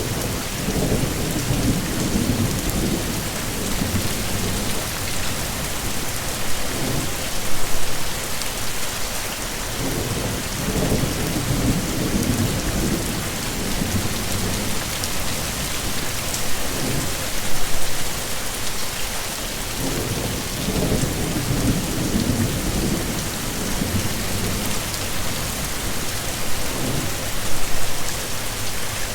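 Heavy rain falling steadily, with low rumbles of thunder rolling in and fading about every ten seconds, and three short louder swells spaced about ten seconds apart.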